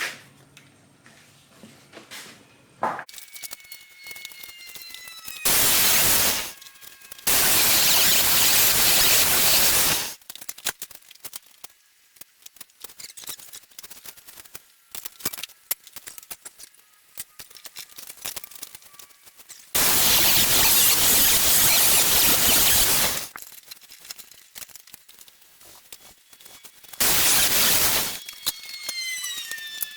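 A power grinder grinding a fuller into a steel knife tang in four bursts of loud hissing abrasive on steel, from about one to three seconds each. Between passes the tool's high whine falls away as it winds down.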